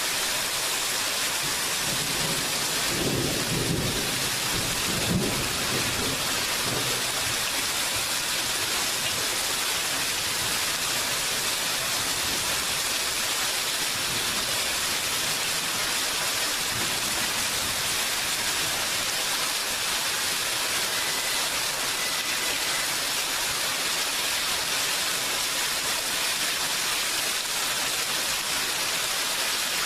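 Steady rain hissing, with a low rumble of thunder about three to seven seconds in and a fainter rumble around the middle.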